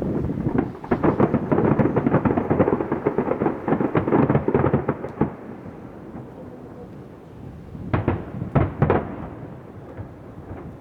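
Fireworks going off: a dense volley of rapid crackling bangs for several seconds, then a lull, then a few separate loud booms near the end.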